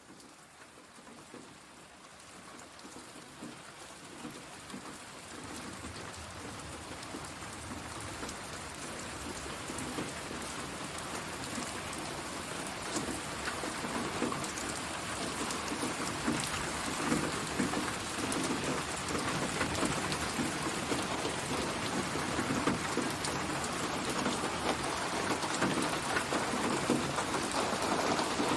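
Synthesized rain ambience, spatialised to move around the listener: a dense, steady patter of rain on surfaces that fades in, growing steadily louder.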